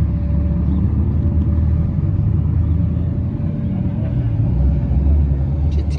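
Car engine idling with a low, steady exhaust rumble, and a short click near the end.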